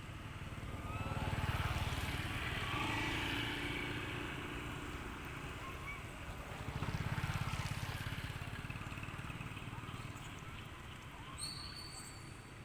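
Low engine rumble of passing vehicles that swells twice and fades, with faint voices behind it and a brief high-pitched tone near the end.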